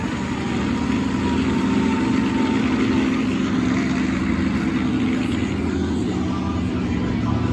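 Monster truck engine running steadily at a low, even pitch, without hard revving.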